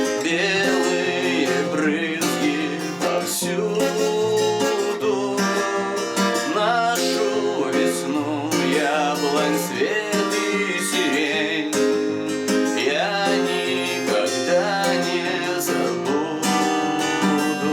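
Song on acoustic guitar: strummed chords with a wavering melody line above them, playing out the end of the song and cutting off abruptly at the end.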